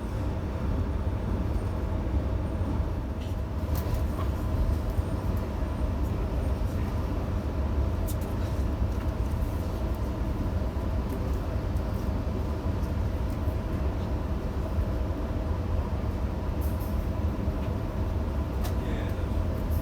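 Electric passenger train running between stations, heard from inside the carriage: a steady low rumble of wheels on rails under a faint steady whine, with a few light clicks.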